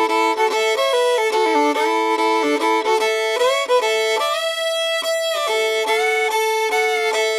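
Background music: a fiddle playing a country tune, sounding several held notes at once and moving between them in steps.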